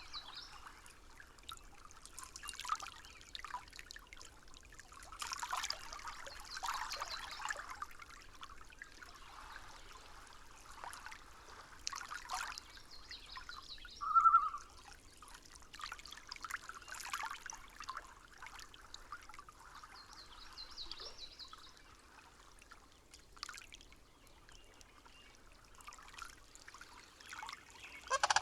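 Water trickling and dribbling in uneven pulses, with a single short high note about halfway through.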